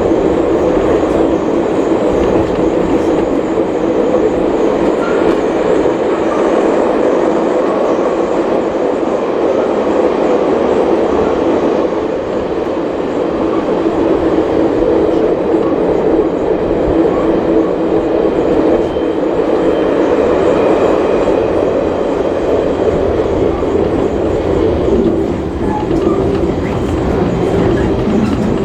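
Steady rumble and rattle of a heritage passenger carriage running along the track behind steam locomotive 5917, heard from inside the carriage.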